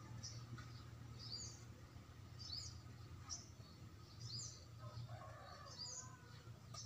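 Faint bird chirping, short high calls repeated about once a second, over a low steady hum.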